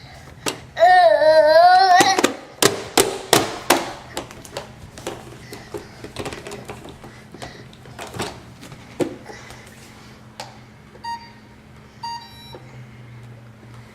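A dog gives one loud, wavering, high-pitched whine-howl lasting about a second, followed by a quick series of sharp knocks and clicks. Near the end a Roomba robot vacuum sounds short electronic beeps twice.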